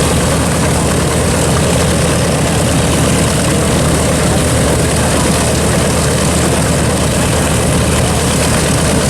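World War II bomber's radial piston engines idling steadily with propellers turning, a loud, even drone.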